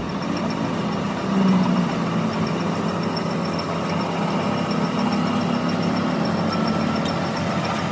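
A machine running steadily with a low hum and a faint, fast, regular high tick.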